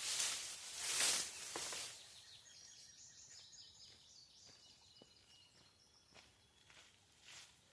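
A few footsteps on a dirt and gravel driveway in the first two seconds, then a small bird chirping in a run of short high calls, with another step near the end.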